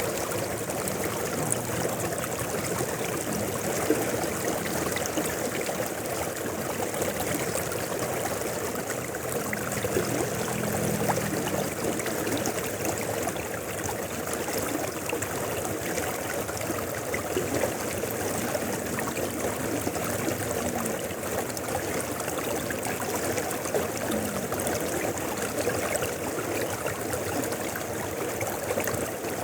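A river flowing down from the mountains, its water running in a steady, even rush.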